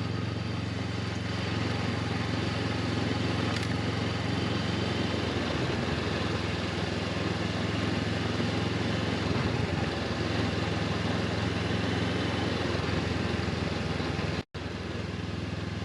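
Honda CB500X parallel-twin motorcycle engine running at a steady pitch, with a brief gap in the sound near the end.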